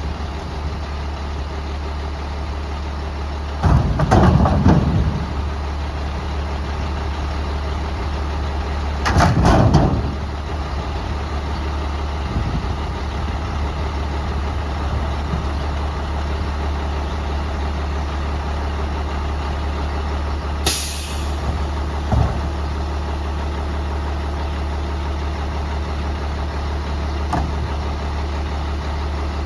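Garbage truck engine idling steadily, with two louder bursts of noise about four and nine seconds in and a short air-brake hiss about twenty seconds in.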